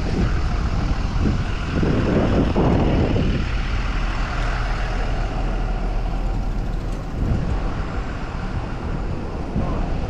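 Downtown road traffic heard from a moving bicycle, with wind rumbling on the microphone; a heavy vehicle is loudest about two to three seconds in.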